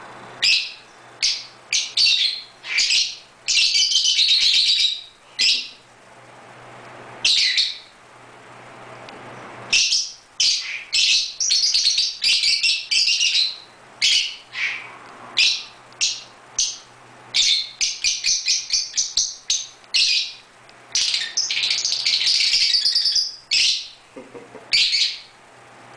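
Fischer's lovebirds chirping: sharp high chirps, single and in quick rapid-fire runs, with a pause of about two seconds in the middle. This is ordinary, normal lovebird chirping, not a sign of distress.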